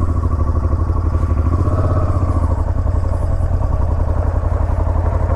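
Motorcycle engine running steadily at an even, low speed, with a fast, regular pulsing beat.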